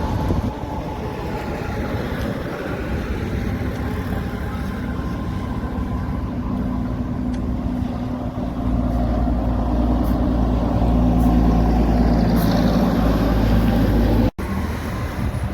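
Truck engine running with road noise, the engine hum building about halfway and loudest near the end, then cutting off abruptly for an instant before the traffic sound resumes.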